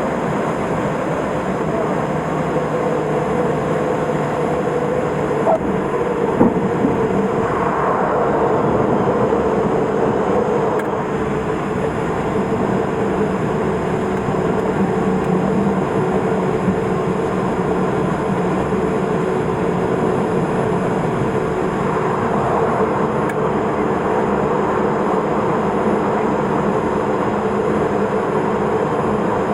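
Steady cabin noise of a Cessna P210 Silver Eagle's Rolls-Royce 250 turboprop engine and the airflow in flight, with a constant hum running through it. A couple of brief light knocks come about six seconds in.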